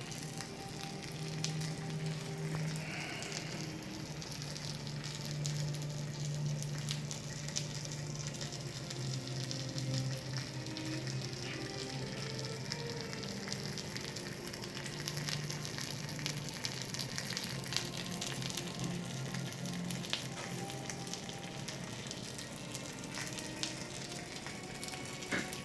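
Black pork sizzling on the grill over an oak wood fire, with frequent sharp crackling pops of fat throughout and a low steady hum beneath.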